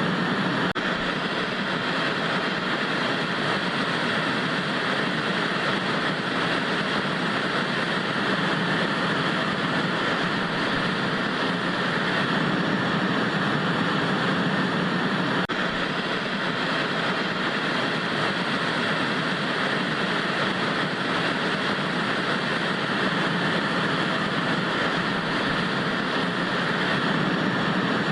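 Analog TV static: a steady, even hiss with no tones or rhythm, with one brief dropout about halfway through.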